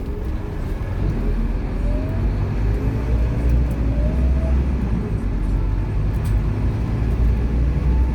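Scania K230UB Omnilink bus's diesel engine and automatic gearbox under acceleration, heard on board: a steady low rumble with a whine that rises in pitch and drops back several times. The drive gets louder about a second in.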